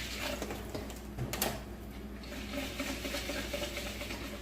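Tap water running and splashing over soaked bird seed in a sprouter's inner vessel for a quick rinse, with one light knock about a second and a half in.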